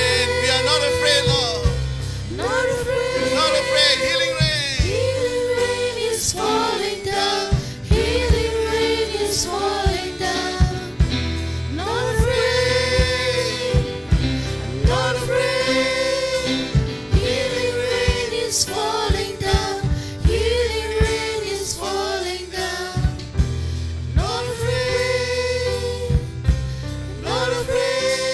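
Live gospel worship music: singers over a band with a steady bass line and occasional drum hits.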